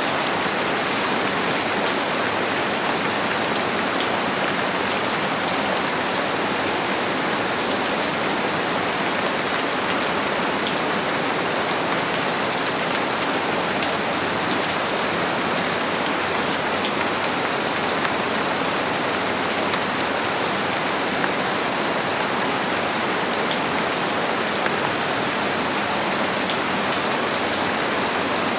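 Steady rain falling on a surface: an even hiss with many small drop ticks mixed in.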